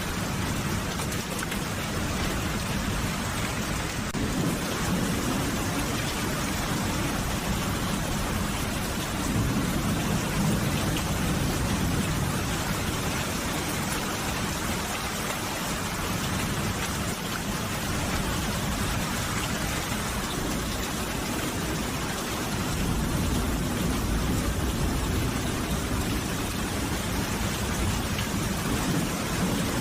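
Steady, dense rainfall hissing evenly. A low rumble swells up twice, about ten seconds in and again past twenty seconds.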